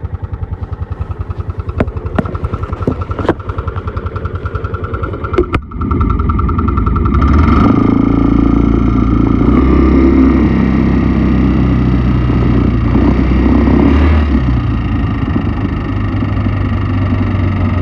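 Piaggio X9 500 scooter engine idling with fast, even pulses and a few sharp clicks, then running faster and louder from about six seconds in. The noise is put down by the owner to the timing chain and its tensioner.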